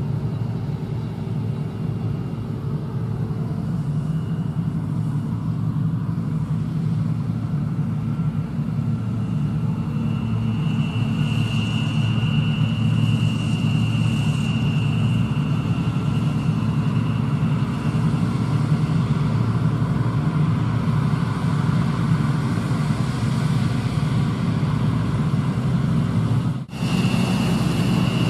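Heavy harvest machinery running steadily under load: a deep engine rumble with a thin, high, steady whine over it that grows stronger partway through. Near the end the sound drops out for an instant and resumes.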